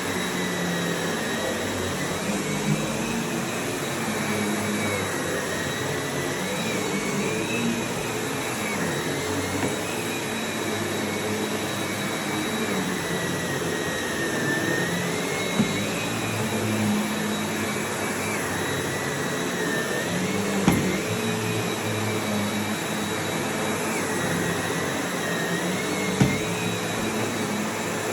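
Sebo Felix upright vacuum cleaner running steadily, its whine wavering up and down in pitch as it works, with a few brief knocks.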